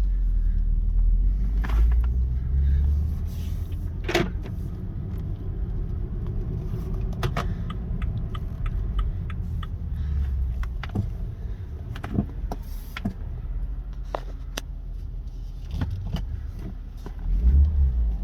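2015 BMW 335i running and driving, a steady low engine and road rumble heard from inside the cabin, with scattered sharp clicks and knocks.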